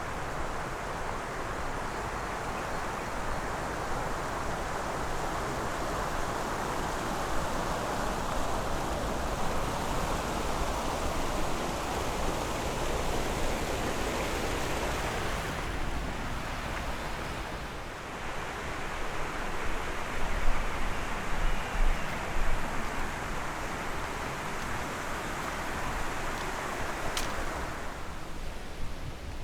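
Steady rushing of fast-flowing water, the sound of a waterfall or stream. The tone shifts about halfway through, and a few louder low bumps come a little later.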